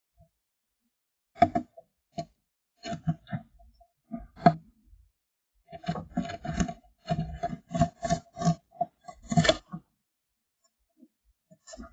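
A tit's feet and beak scraping and tapping on the wooden nest box, in irregular bursts of quick knocks with a hollow wooden ring, busiest from about six to ten seconds in.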